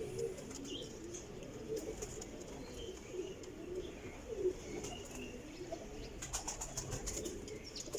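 Domestic pigeons cooing steadily in the loft, with a run of sharp clicks in the last two seconds.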